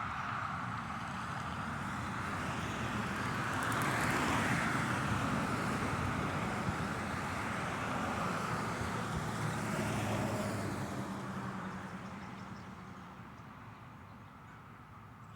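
Road traffic: cars driving past one after another, swelling as two vehicles go by, then dying away toward the end.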